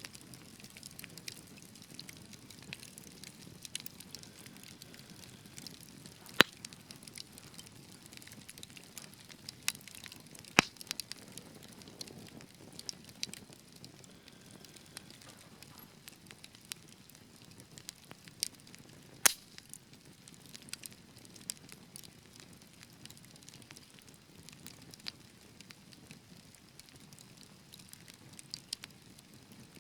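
Fire crackling in a fireplace: a steady scatter of small irregular snaps over a soft low rush of flame, with three loud sharp pops about 6, 10 and 19 seconds in.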